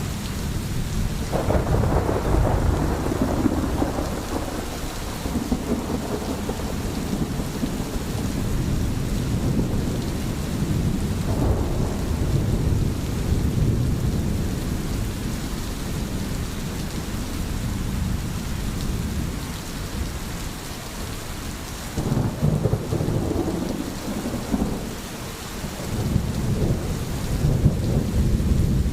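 Steady rain falling, with deep rolls of thunder swelling up about a second and a half in, again around eleven seconds, and twice more near the end.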